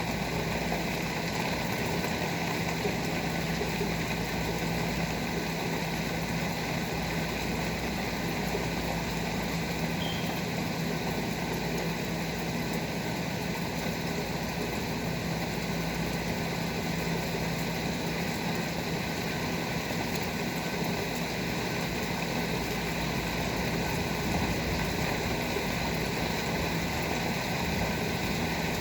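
Steady rain falling, with a constant low machine hum underneath that does not change.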